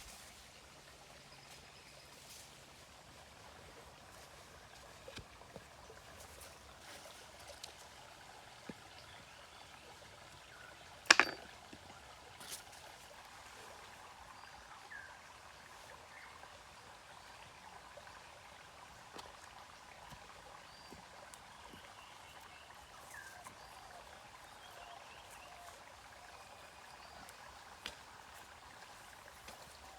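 Faint trickling water with scattered small clicks and knocks, and one sharp knock about eleven seconds in.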